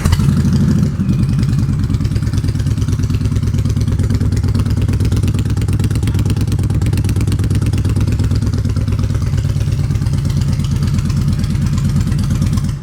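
2017 Indian Springfield's 111 cubic inch V-twin, just started, idling steadily through aftermarket Rush exhaust pipes. The sound is made louder by the indoor room. It cuts off suddenly at the very end as the engine is shut off.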